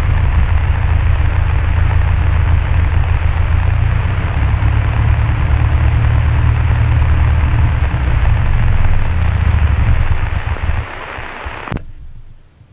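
Cessna 172 Skyhawk's piston engine running steadily at low power, then shut down about ten seconds in, its drone dying away over a second or so, with a single click near the end.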